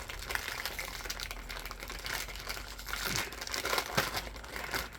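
A package of Sour Patch Kids Oreo cookies being opened, its wrapper crinkling and crackling in irregular bursts.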